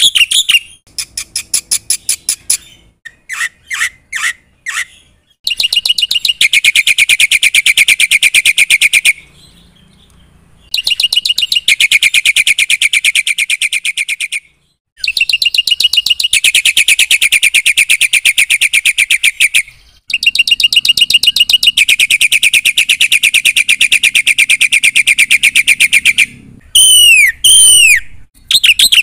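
Black-winged myna (jalak putih) singing loudly in long runs of very fast repeated notes, broken by short pauses, with a few separate chirps early on and several sharply descending whistles near the end.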